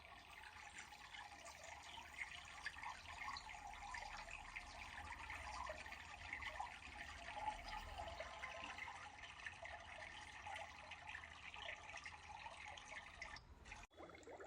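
Faint, steady trickle of running water with scattered small drips.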